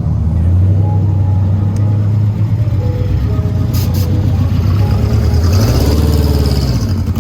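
Car engine idling loudly with a low exhaust note, revved up and back down once about five and a half seconds in.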